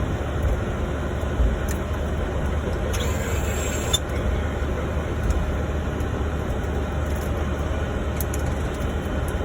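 Steady cockpit noise of a Boeing 747-400 freighter rolling on the ground after landing: a low rumble with an even hiss. About three seconds in, a brief higher hiss lasts for about a second.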